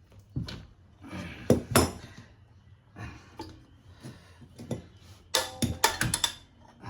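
Metal clanks and scrapes as a big adjustable spanner grips and levers a bent motorcycle brake pedal, straightening it by brute force. Scattered knocks build to a quick run of loud, ringing clanks near the end.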